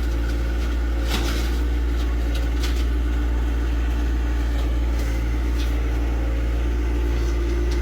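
John Deere tractor engine running steadily, with a few short knocks and clanks over it.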